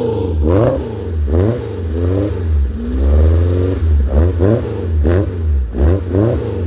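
1989 Tiger kit car's engine, still cold, being blipped on the throttle: a run of short revs rising and falling about once a second, with one longer rev about halfway through.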